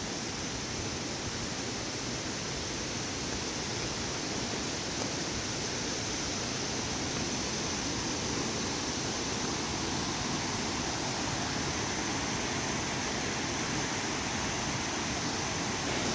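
Steady rushing of a waterfall, slowly growing a little louder.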